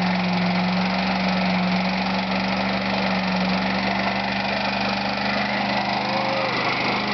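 Ford Crown Victoria police car's V8 engine running at a steady, unchanging speed. The engine has lost its antifreeze.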